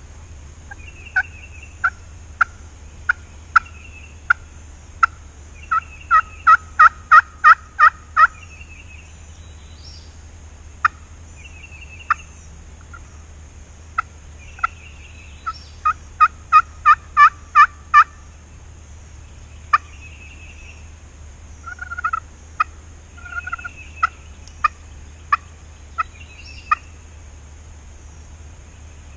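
Turkey yelping in a long series of sharp notes, about two a second and twice quickening into fast runs of about four a second. Faint higher bird chirps sound between the yelps.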